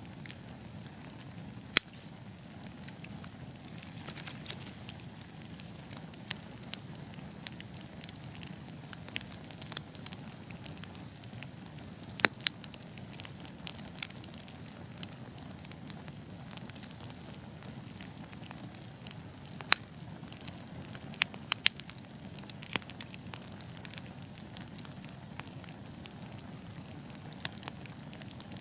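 Wood fire burning in a fireplace: a steady low rumble of flames with irregular sharp crackles and pops, a few louder snaps standing out.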